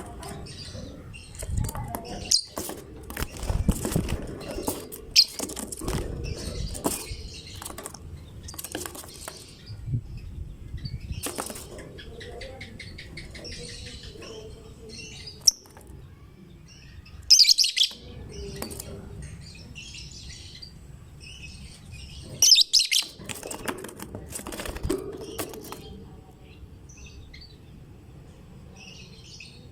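Lovebirds chirping in short, sharp, high-pitched bursts, loudest about 17 and 23 seconds in, amid wing flapping and low rustling.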